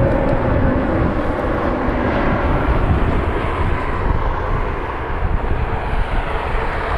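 Jet airliner engines passing by, a steady wide rush with a faint tone that sinks slightly in pitch as the sound slowly fades.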